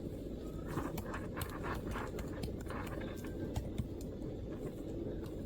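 MacBook keyboard typing: a quick run of keystroke clicks for a couple of seconds, then a few scattered taps, over a steady low background rumble.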